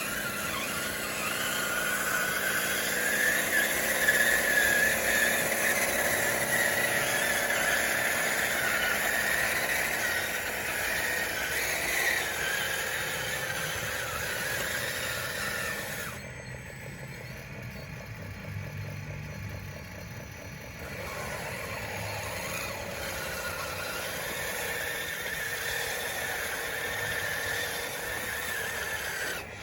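DXR2 RC bulldozer's electric drive and gearboxes whining as it works, the pitch rising and falling with the motor speed. Loudest in the first half, it drops back from about sixteen seconds in.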